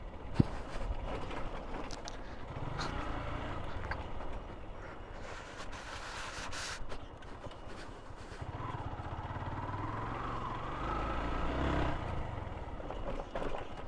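Motorcycle engine running at low speed while being ridden over a rough, broken road, with scattered short knocks and rattles.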